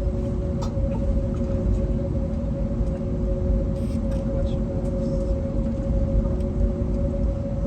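Steady cabin noise inside an Airbus A321neo on the ground before takeoff. A low rumble runs under a constant hum from its CFM LEAP-1A engines and the aircraft's systems.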